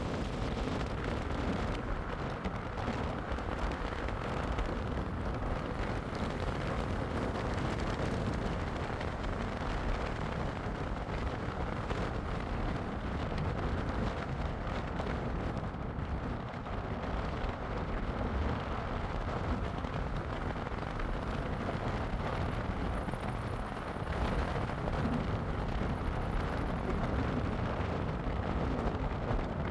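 Steady road and wind noise of a moving car, an even low rumble and rush that holds level throughout.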